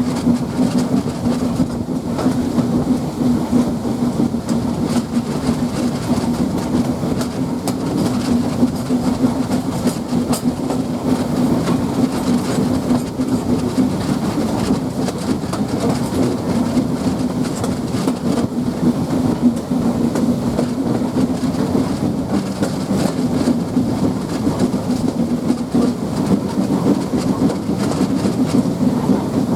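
Steam-hauled passenger train running steadily along the line: a constant rumble of wheels on rail with clickety-clack over the rail joints.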